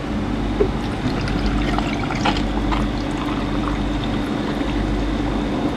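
Monster energy drink poured from a can into a glass over ice: a steady pouring and fizzing, with a few light clinks.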